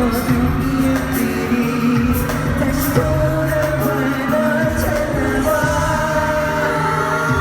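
Live K-pop music: a male group singing a song over loud amplified backing, recorded from the audience at a concert.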